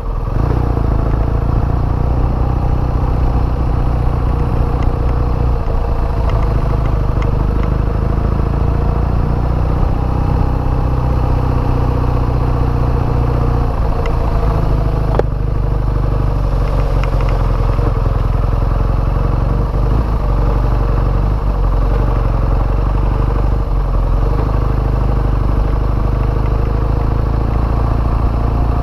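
BMW boxer-twin motorcycle engine running steadily at low road speed, heard from the rider's seat, with small changes in pitch as the throttle moves. A single sharp click sounds about halfway through.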